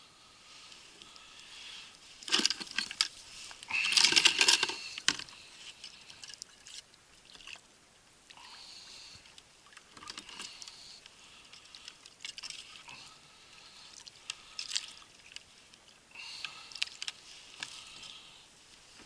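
Water splashing and dripping, mixed with small clicks and rattles. The sound comes in irregular bursts and is loudest about two to five seconds in.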